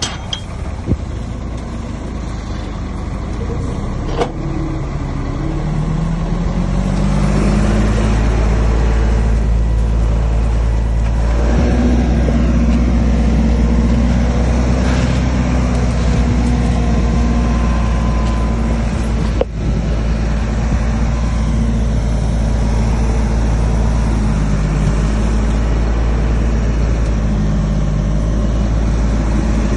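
Heavy diesel engine of earthmoving machinery revving up about six seconds in, then running loud and steady at high revs, with a sudden brief dip about two-thirds of the way through. A sharp knock about a second in and another about four seconds in.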